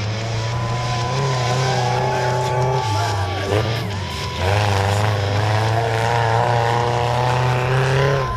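Mini monster truck engine revving hard and held at high revs, dropping off briefly about halfway through, then revving up and holding again.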